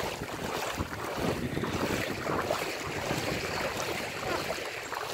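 Feet wading through floodwater, with steady sloshing and splashing of the water.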